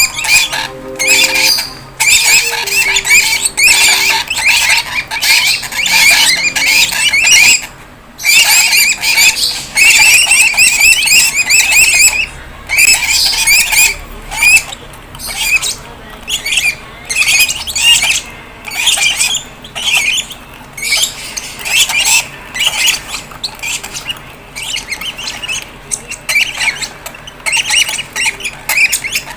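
Fischer's lovebird chicks squawking in rapid, harsh, repeated calls, typical of chicks begging to be fed. The calls run almost without a break for about twelve seconds, then come in separate bursts that grow fainter.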